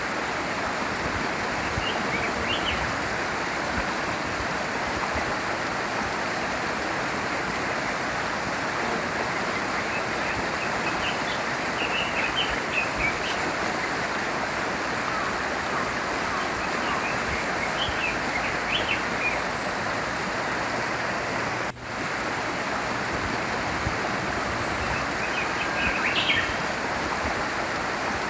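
A stream flowing with a steady rush, with small birds chirping now and then in short bursts. The water noise drops out for an instant about three quarters of the way through.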